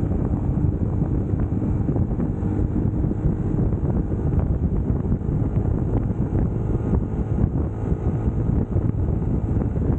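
UM Scrambler X motorcycle engine running at riding speed under heavy wind noise on the camera microphone, a steady rumble with no sudden events.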